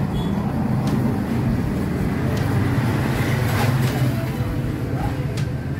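A motorcycle engine idling steadily, with a few faint metallic ticks from a battery terminal bolt being fastened.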